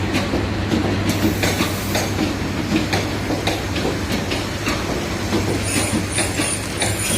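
Lalmonirhat Express passenger train rolling into a station. Its wheels clatter over the rail joints with many sharp clicks over a steady low hum. A thin, high wheel squeal comes in near the end.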